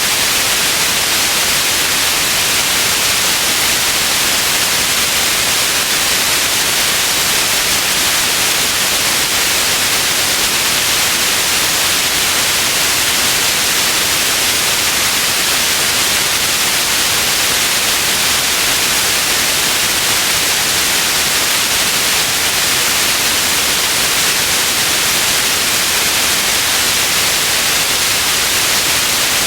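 Steady white noise: an even, unchanging hiss, bright and strongest in the high frequencies.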